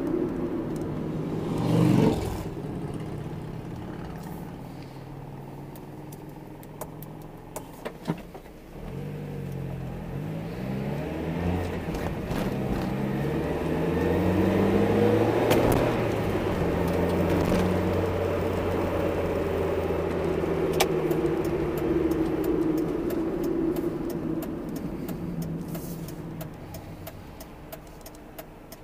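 1996 Mazda Miata's four-cylinder engine and road noise heard from inside the cabin while driving. The engine note rises in pitch as the car accelerates in the middle, holds steady while cruising, then drops and quietens near the end as the car slows.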